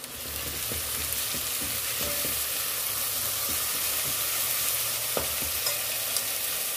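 Freshly washed moong dal sizzling in hot oil with fried onions as a steel spoon stirs it round the pot, with a few light scrapes of the spoon. The sizzle swells over the first second and then holds steady.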